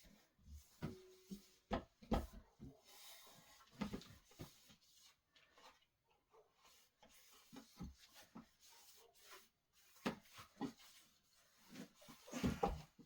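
Irregular light knocks, clicks and rubbing of solid-wood dining table parts being handled and fitted during assembly, with a cluster of louder knocks near the end.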